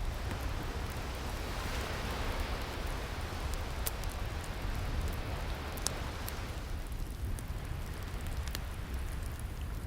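Wood fire crackling, with a few sharp pops, over the wash of ocean waves; a wave swells through the first half and recedes.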